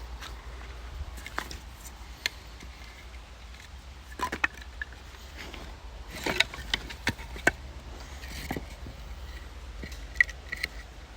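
Scattered wooden knocks, clicks and scrapes from scrap boards being handled, with the sharpest clatters in clusters about four seconds in, around six to seven seconds, and once near the end.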